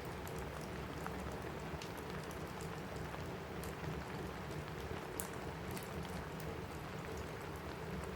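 Steady rain falling on a roof, with scattered sharp crackles and pops from a wood fire in a fireplace; a few louder pops come about five seconds in.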